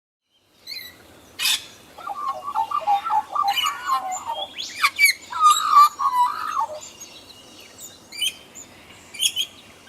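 Magpie calling: two runs of warbling, fluty notes with short, sharp higher chirps between and after them.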